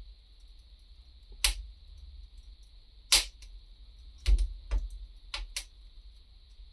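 Wood fire crackling: about six sharp, irregular pops and snaps over a steady low rumble and a faint high hiss.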